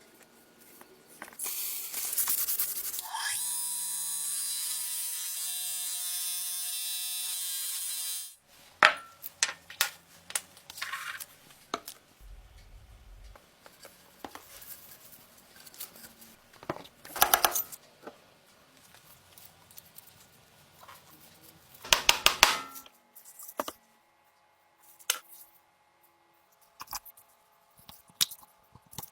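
A small electric power tool runs steadily for about six seconds, then cuts off. Scattered sharp clicks, taps and rubbing of parts being handled follow.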